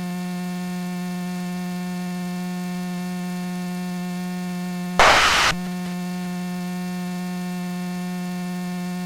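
Steady electrical hum with even overtones in an aircraft intercom feed, with a short burst of hiss about five seconds in.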